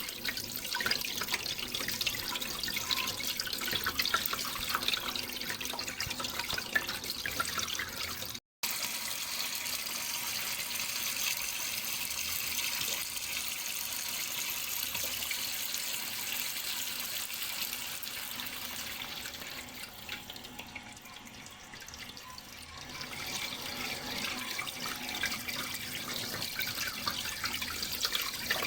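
Running water trickling and splashing steadily, cut by a split-second dropout about eight seconds in and softening for a few seconds a little past two-thirds of the way through.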